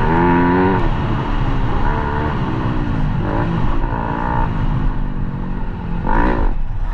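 Dirt bike engine revving up and down as it is ridden on a motocross track, the pitch rising and falling with the throttle, with a sharp rev near the end.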